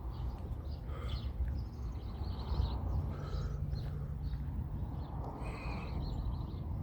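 Birds chirping and calling in short bursts over a steady low rumble.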